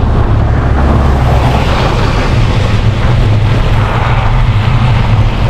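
Wind buffeting the microphone of a moving bicycle, a steady loud low rumble, with the rushing hiss of bicycle tyres rolling over a snowy road.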